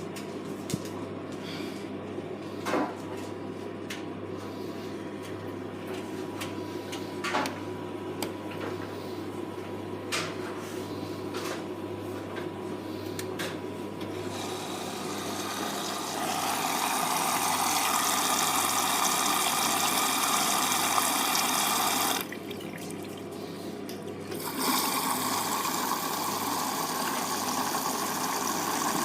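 Hoover Vision Tech washing machine starting a wash: a steady low hum with a few clicks, then about 14 seconds in water begins rushing in through the inlet valve and detergent drawer as it fills. The fill cuts off suddenly near 22 seconds and starts again a couple of seconds later.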